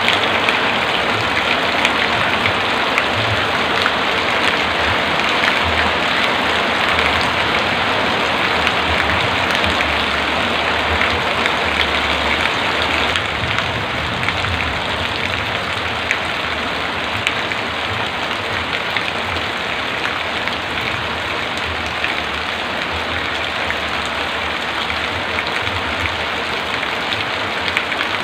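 Heavy rain falling steadily, a dense, even hiss of downpour with uneven low swells underneath.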